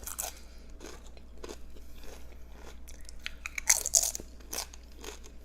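Close-miked eating: biting and chewing with crisp crunches throughout, loudest about four seconds in.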